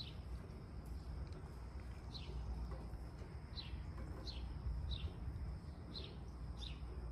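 A bird calling again and again: short high chirps that fall in pitch, about one a second and coming closer together after the first few seconds, over a low steady rumble.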